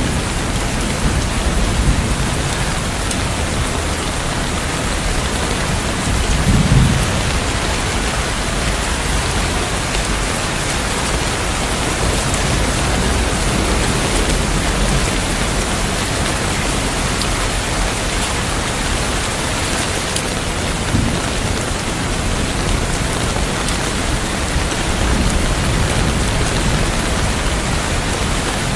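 Heavy rain falling steadily, an even hiss of drops, with low rolls of distant thunder underneath, the strongest about seven seconds in.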